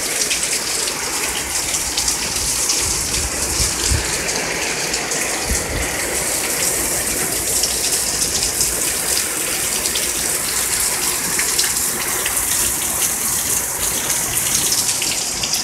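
Heavy rain pouring down onto pavement and parked cars, a dense, even hiss that holds steady throughout.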